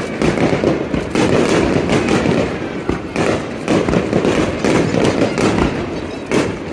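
Fireworks display: a dense, continuous run of bangs and crackling shell bursts.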